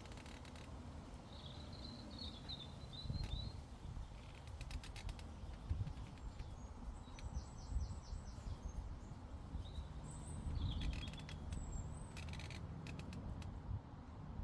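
Small birds calling and chirping in short high phrases, over a steady low rumble of wind on the microphone. Several short clusters of sharp clicks come and go between the calls.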